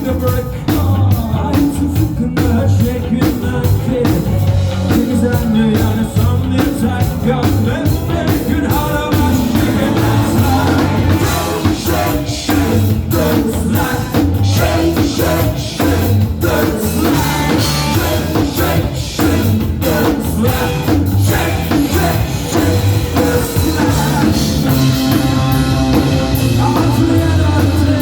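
Rock band playing live, loud and without a break, with drum kit and singing over a heavy bass-driven mix.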